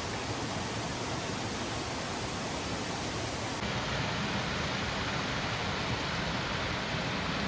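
Steady, even rushing noise with no distinct events; its tone shifts abruptly about halfway through.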